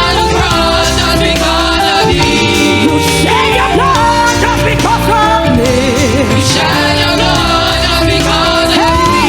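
Gospel song performed live by a church choir with a backing band: sung notes with vibrato over keyboard, bass and drums.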